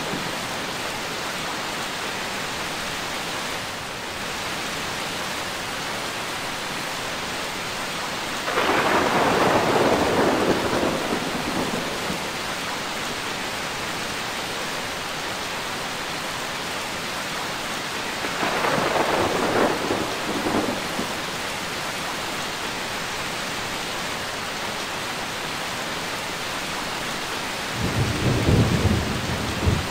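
Steady rain falling, with peals of thunder swelling and fading three times: about nine seconds in, about eighteen seconds in, and near the end.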